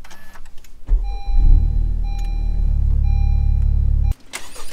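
Car engine starting with a burst and then running steadily, with a thin high whine over it. It cuts off abruptly near the end.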